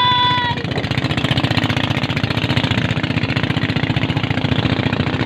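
Boat engine running steadily with a fast, even low pulsing.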